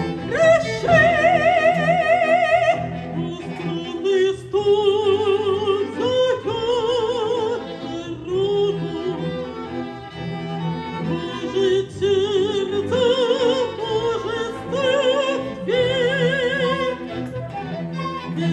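Operatic soprano singing held notes with wide vibrato over a bowed-string accompaniment.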